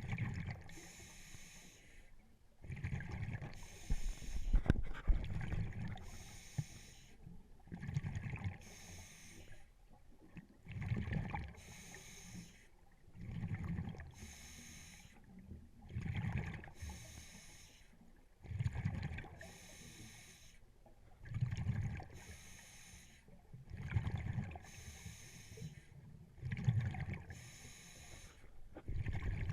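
Scuba diver breathing through a regulator underwater: a hissing inhale alternates with a low bubbling exhale, about one breath every two and a half seconds.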